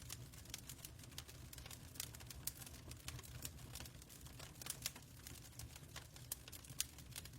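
Fireplace fire crackling: irregular sharp pops and snaps of varying loudness over a low steady rumble.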